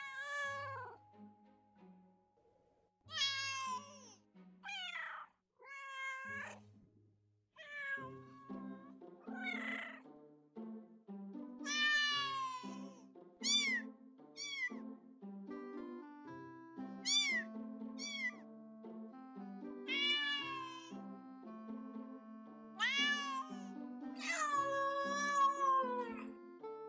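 Domestic cats meowing: a series of separate meows of varying length and pitch, some long and drawn out, some short and rising. Soft background music with held notes comes in about eight seconds in.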